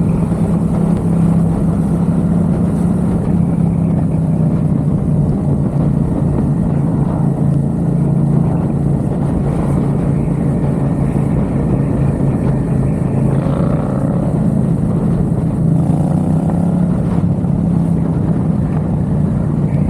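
Yamaha XSR700's parallel-twin engine running through an aftermarket MiVV exhaust, holding a steady note with only slight changes in pitch while the motorcycle is ridden, with a rough rush of noise beneath it.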